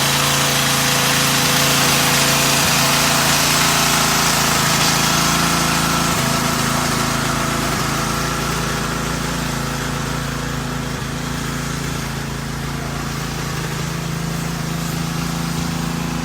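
Car wash machinery running steadily: a motor hum under a strong hiss that eases off after about six seconds.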